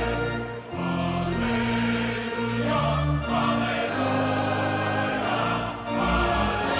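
Choir singing with orchestra: slow, held chords that change every second or so.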